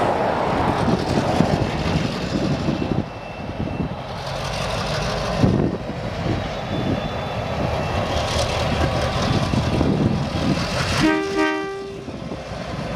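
Two DAZ-class diesel locomotives heading a ballast train run past, engines working over the steady rumble of wheels on rail. The locomotive horn gives one short blast of about a second near the end.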